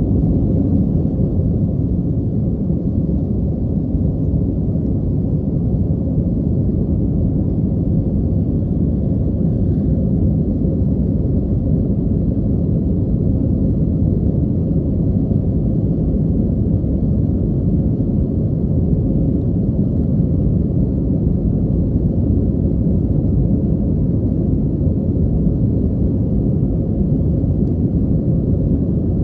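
Steady low rumble inside an Airbus airliner's cabin in flight: engine and airflow noise at an even level.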